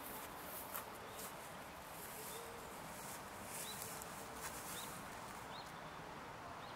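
Faint steady outdoor ambience with a few short, high bird chirps now and then.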